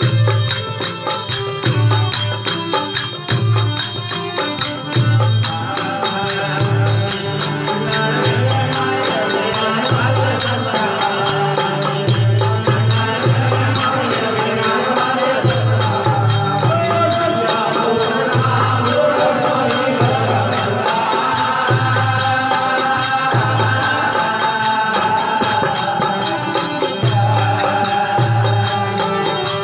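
Rajasthani folk devotional bhajan music: a steady low drum beat under jingling percussion, with a wavering melody line that grows stronger about six seconds in.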